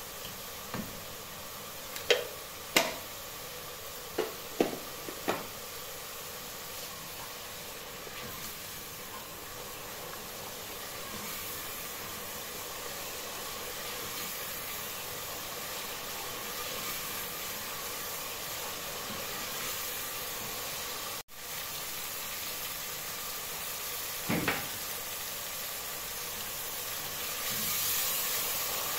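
Tomato masala sizzling in hot oil in an aluminium pressure cooker while a wooden spoon stirs it. A few sharp knocks sound between about two and five seconds in, and once more near the end.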